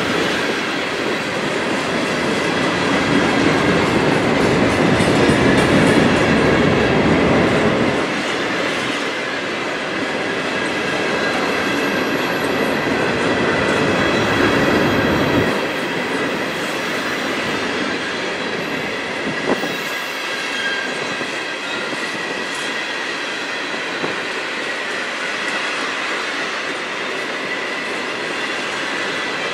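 Freight train rolling past, its steel wheels clicking over rail joints with a steady high-pitched wheel squeal. A heavier low rumble fills the first half and stops abruptly about halfway through.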